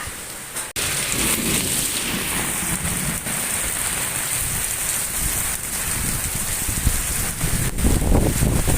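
Heavy rain pouring steadily, with strong wind buffeting the microphone in heavy low gusts near the end.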